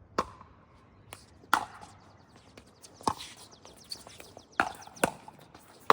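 Pickleball paddles striking a plastic ball in a rally: sharp pops about every second and a half, with two quick hits close together near the end.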